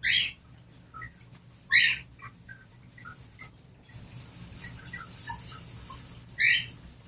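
Cockatiels calling: three loud, short calls, one at the start, one about two seconds in and one near the end, with softer chirps between. A steady hiss joins for about two seconds in the second half.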